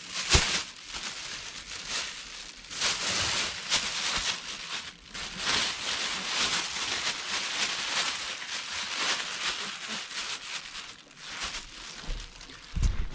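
Plastic bags crinkling and rustling as they are pulled on over muddy boots as makeshift covers, with a dull thump just before the end.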